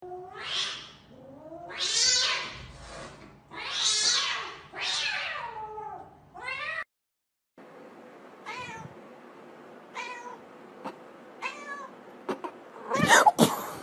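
Domestic cat meowing repeatedly: about five loud, drawn-out meows, then after a short break several fainter, shorter meows and a louder burst of sound near the end.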